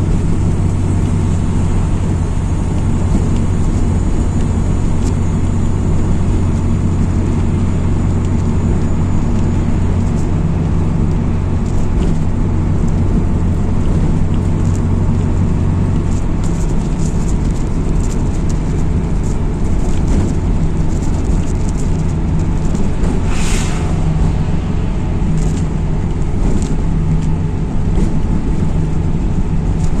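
MAZ-206 city bus running along its route, heard on board: steady diesel engine note and road noise with frequent light rattles and clicks. The engine's pitch shifts about halfway through, and a short hiss comes a little after.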